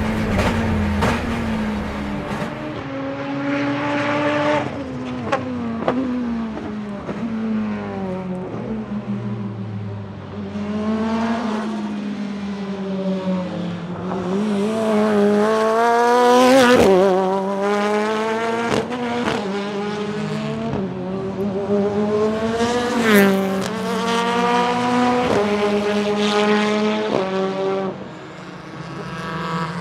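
The turbocharged 2.0-litre four-cylinder engine of a BMW E36 time-attack car (an S14B20 with a Garrett turbocharger and a sequential gearbox) revving hard. Its pitch climbs and drops again and again as it shifts through the gears, with several sharp cracks along the way. It goes quieter briefly near the end.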